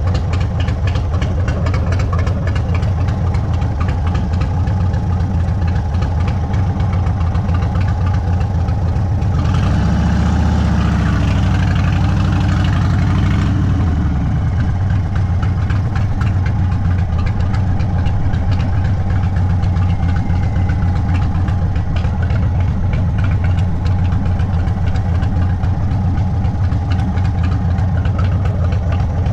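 Indian Sport Chief's V-twin running through an aftermarket Sawicki Speed exhaust, a steady low beat. About a third of the way in it gets louder and rougher for around four seconds, then settles back.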